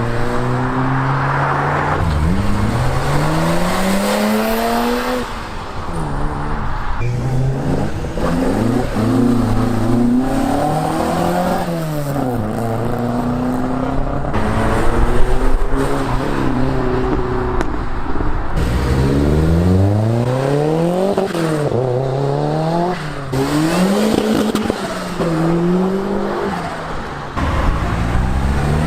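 Modified and classic car engines revving and accelerating away, several in turn; the pitch climbs and drops again many times as they rev and change gear, loudest about halfway through.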